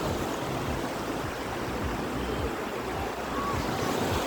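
Surf breaking and washing up a beach: a steady rush of waves.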